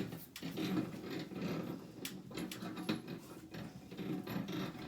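Irregular metal clicks, knocks and scraping as the air conditioner indoor unit's hanging brackets are worked off their threaded hanger rods.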